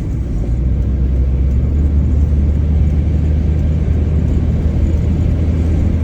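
Mitsubishi Lancer driving, heard from inside the cabin: a steady low engine and road drone that grows a little louder over the first second.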